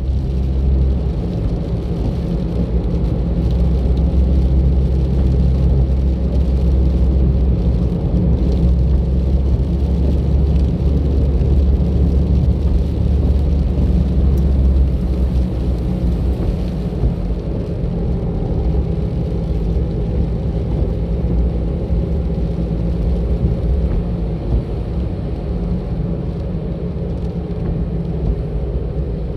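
A moving car's engine and tyre noise, picked up by an in-car camera: a steady low rumble with a low engine hum that eases a little past the halfway point.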